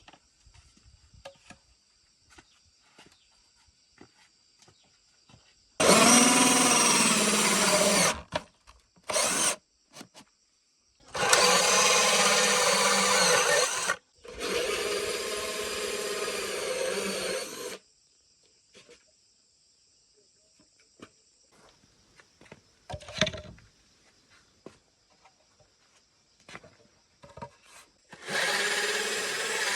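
A handheld power tool running in several bursts of a few seconds each, stopping between them. Small quiet taps and knocks fill the pauses.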